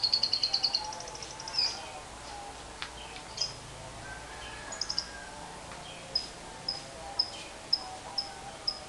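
Lovebird chattering in a fast, high trill (the 'ngekek' call) that breaks off about a second in, followed by scattered chirps and then a regular run of short, high chirps about two per second.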